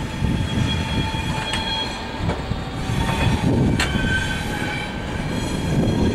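SBB double-deck passenger coaches rolling slowly past: a steady rumble of wheels on the track with a faint high wheel squeal over it, and a few sharp clicks as wheels pass over the rails.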